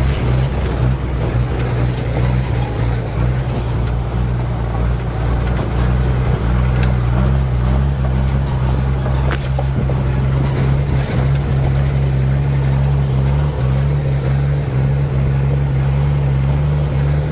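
Truck engine running steadily with a low, even hum, its pitch shifting slightly about six seconds in, with a few small clicks over it.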